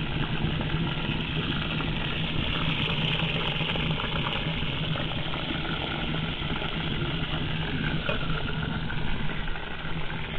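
Steady sizzling of meat and onion frying in oil in a kazan over a wood fire, with a few faint crackles and a steady low hum underneath.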